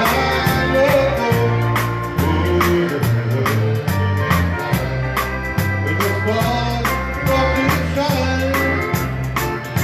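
Live dance band playing a country song, a singer over a bass line and a steady beat.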